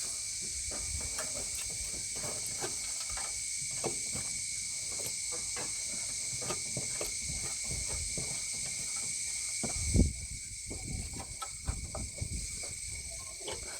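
Scraping and knocking of the underside of a ride-on mower deck being cleaned off, irregular small knocks with one heavier knock about ten seconds in, over a steady high-pitched hiss.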